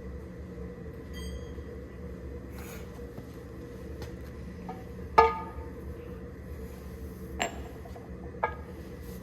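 Metal tools or engine parts clinking against each other with a ringing note, three times, the first and loudest about five seconds in and two lighter ones near the end, over a steady machine hum.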